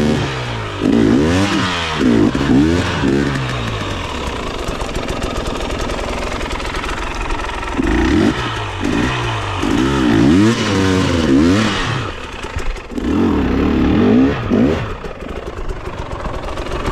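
Dirt bike engine revving up and down in repeated bursts, with a steadier, lower-pitched stretch of running in the middle.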